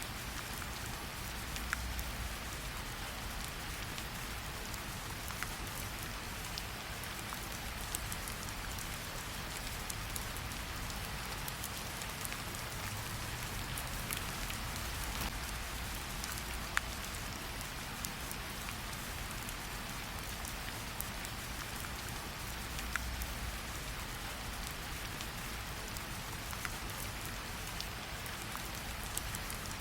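Steady rain hissing, with scattered sharp pops and crackles from a campfire, the loudest about seventeen seconds in.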